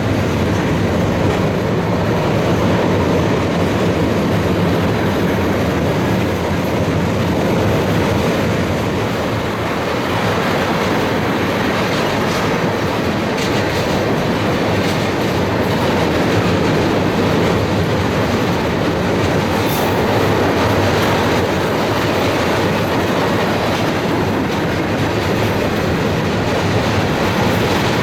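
Railroad cars of a passing train rolling by close at hand, the wheels clacking steadily over the rail joints.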